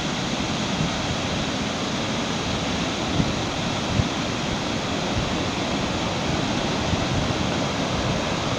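Waterfall: a steady, loud rush of falling water close by, with light wind on the microphone and a few soft low bumps.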